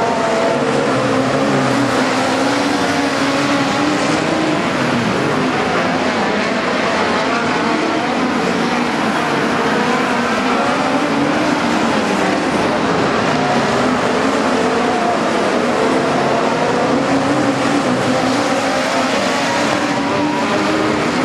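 Several midget race cars running together at speed, their engines continuously rising and falling in pitch as they go round.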